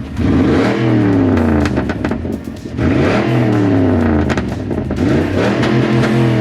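Straight-piped Cadillac DTS V8 exhaust revving loudly, its pitch climbing and dropping back about three times.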